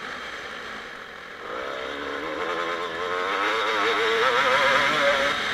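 2007 Kawasaki KX250 single-cylinder two-stroke motocross engine heard from on the bike. It is quieter off the throttle for about a second, then from about a second and a half in it pulls again, its pitch wavering and climbing with the throttle.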